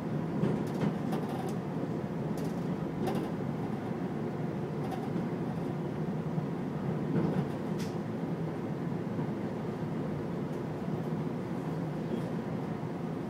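CTA Brown Line elevated train running along curved track, heard from inside the front car: a steady rumble of wheels on rail with scattered sharp clicks, most of them in the first few seconds and one more about eight seconds in.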